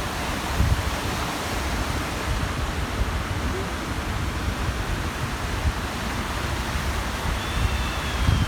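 Small waves washing steadily onto the shore of a large reservoir, with wind gusting on the microphone. A faint high cry comes near the end.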